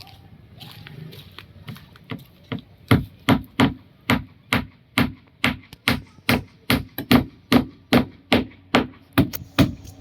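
Hammer blows on wood, nailing timber during a wooden boat repair: a steady run of sharp strikes, about two or three a second, starting two to three seconds in.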